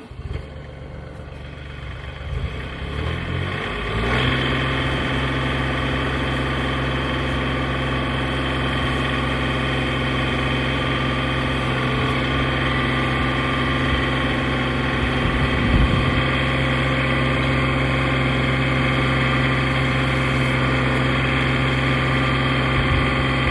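Portable sawmill's engine coming up to speed over the first few seconds, then running steadily.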